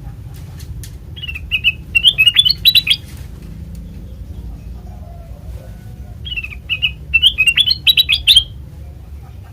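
Kutilang emas bulbul singing two short phrases of quick, bright chirps a few seconds apart, over a steady low rumble.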